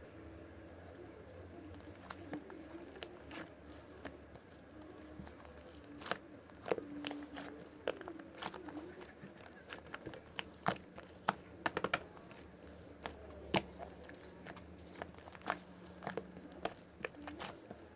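Slime being squeezed and worked by hand, giving irregular sharp clicks and pops. They are sparse at first and come thick and fast from about six seconds in.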